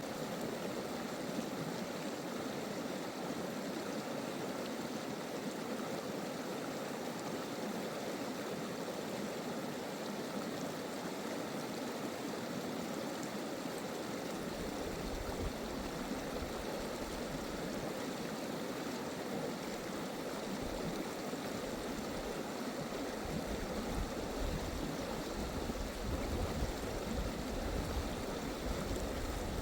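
A stream or brook flowing with a steady rushing and gurgling. Bursts of low rumble, like wind on the microphone, come in from about halfway through.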